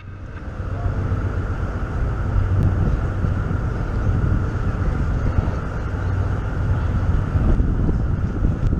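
Steady low engine rumble with wind buffeting the microphone, fading in over the first second.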